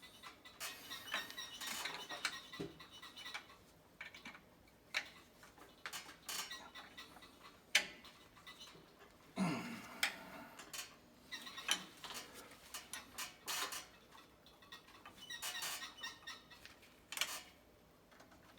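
Irregular metallic clinks and clicks of hand tools on the bolts and housing of a B&G Series 100 circulator pump as it is bolted back together.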